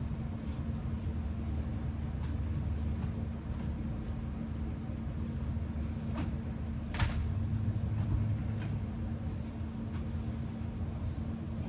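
Steady low background hum with a constant tone under it, broken by a few short clicks, the sharpest about seven seconds in.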